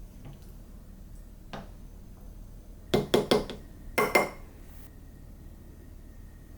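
Hard kitchenware being handled and set down: a light tap, then three quick ringing clinks, and two more about a second later.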